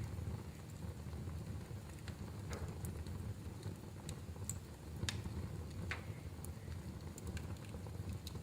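Wood fire in a fireplace crackling: a steady low noise from the flames with scattered sharp pops, the loudest about five and six seconds in.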